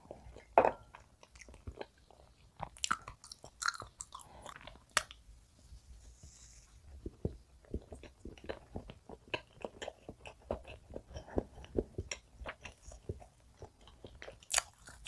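Close-miked eating of soft castella sponge cake with fruit jam: a wooden spoon scraping jam from a glass jar at the start, then steady soft, wet chewing full of small mouth clicks.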